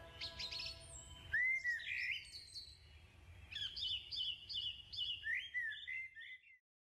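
Songbirds singing: varied chirps and whistled notes, then a quick run of short repeated notes, over a faint low rumble. The last of a music track fades out in the first second, and everything cuts off suddenly near the end.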